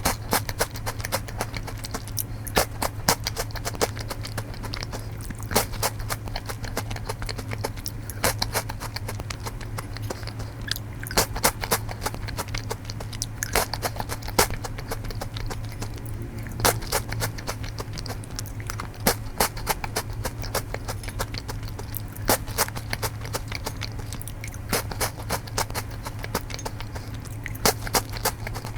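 Close-miked chewing and crunching of matcha Choco Songi, small crisp biscuit stalks with chocolate caps, as crisp irregular crunches several times a second over a steady low hum.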